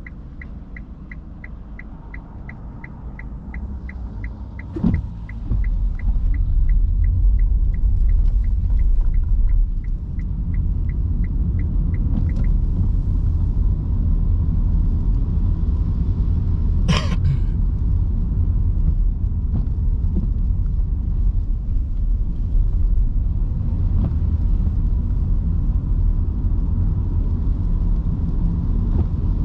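Inside an electric car's cabin on a wet road: the turn-signal indicator ticks about two and a half times a second and stops about twelve seconds in. About five seconds in the low tyre and road rumble grows louder as the car gets moving, with a rushing hiss from the wet road. One sharp knock comes a little past halfway.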